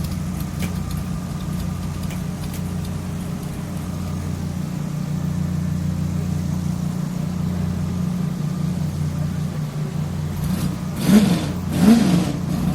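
Large race-truck engine idling with a steady low drone, blipped twice in quick succession near the end with short revs that rise and fall.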